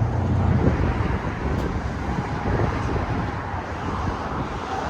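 Road traffic noise outdoors: a steady roar of passing vehicles, with a vehicle's low rumble strongest in the first second, then fading.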